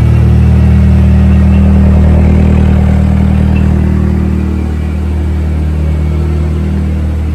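Turbocharged Nissan Hardbody truck engine running at a steady speed on a chassis dynamometer: a loud, even drone that jumps up suddenly at the start and eases off slightly about five seconds in.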